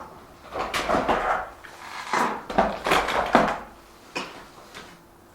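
Irregular knocks and clattering, loudest in the first three and a half seconds and quieter toward the end.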